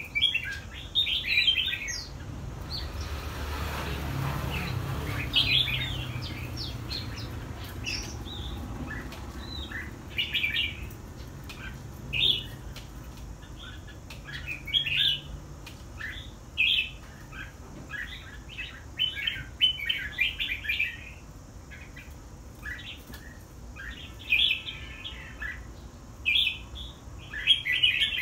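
Red-whiskered bulbul singing: short, bright chirping phrases repeated every second or two. A low rumble underlies them a few seconds in.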